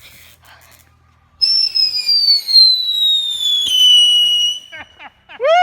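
A whistling firework going off: a loud, shrill whistle starts about a second and a half in and slides slowly down in pitch. It then holds a steady tone for about a second before stopping near the end.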